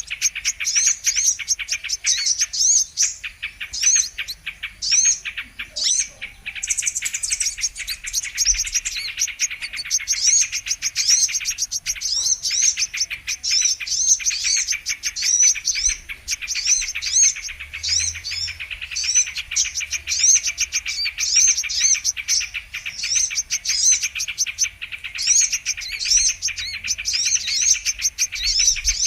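Brown-throated sunbird (kolibri kelapa) singing: a continuous fast string of high, sharp, down-slurred chirps, two or three a second, over a rapid buzzy trill.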